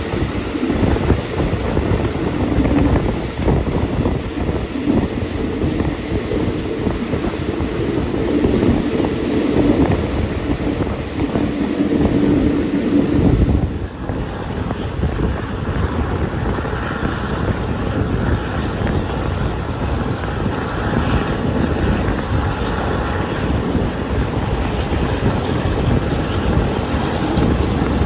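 Wind buffeting the microphone of a phone held out of a moving passenger train's window, over the train's steady running noise. The sound changes abruptly about halfway through.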